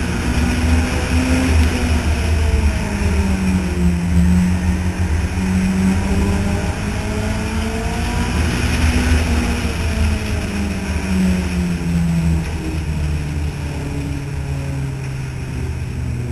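Several compact race car engines running hard on a short oval, their pitch repeatedly rising and falling as the cars accelerate and lift off, with overlapping engine notes from different cars. The sound eases a little in the last few seconds.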